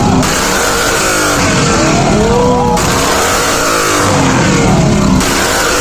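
Sports car engines revving, several engine notes rising and falling over one another.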